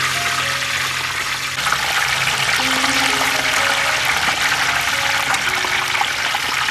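A bunch of young coconuts deep-frying in a large wok of hot oil, sizzling and bubbling steadily. Soft background music plays melody notes underneath.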